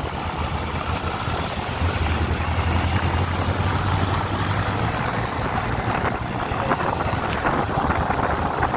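Motorcycle engine running steadily while riding, with a low hum that grows louder about two seconds in, under wind noise on the microphone.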